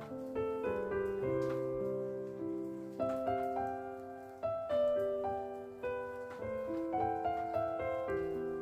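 Background piano music: a slow melody of struck notes that ring and fade, one after another.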